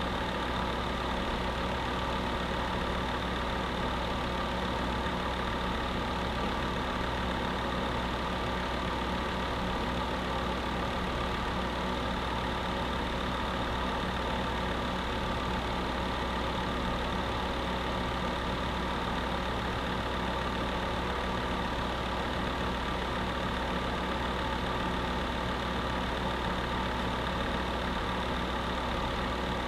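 Electric space heater running steadily: an even fan whoosh with a steady motor hum underneath, unchanging throughout.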